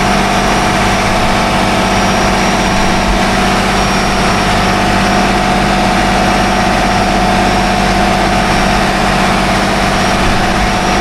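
Volvo marine diesel engine running at a steady speed: an even, loud drone with a steady whine over it.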